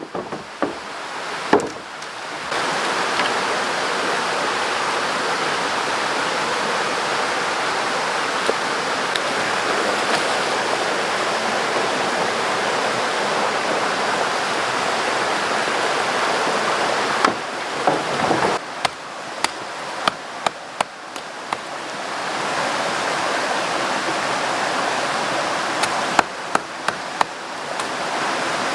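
River water rushing steadily, with scattered sharp clicks and knocks in the second half.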